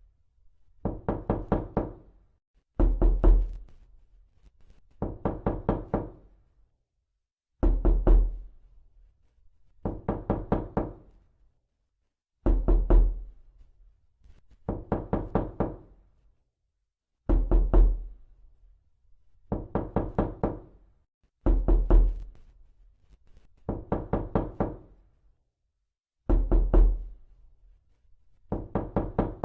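Repeated knocking in quick bursts of several fast raps, about a second long, with a burst roughly every two seconds. Heavier, deeper-sounding bursts alternate with lighter ones.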